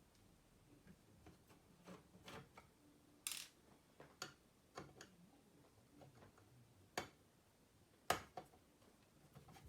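Faint, irregularly spaced clicks and taps, a short scrape about three seconds in and the loudest click about eight seconds in.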